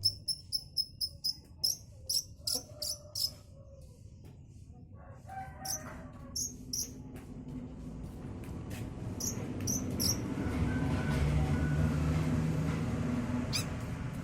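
Young long-tailed shrike (cendet) practising its song: a quick run of sharp, high chips, about five a second for the first three seconds, then scattered single calls. A low rumble swells up in the second half and fades slightly near the end.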